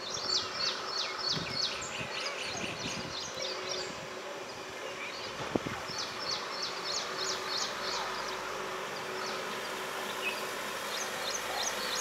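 Bird chirping in three bursts of rapid, high, sharp notes, with a single sharp click about halfway through.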